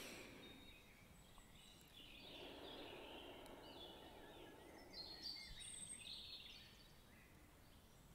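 Faint nature ambience: small birds chirping now and then over a soft rushing background that swells and fades in the middle.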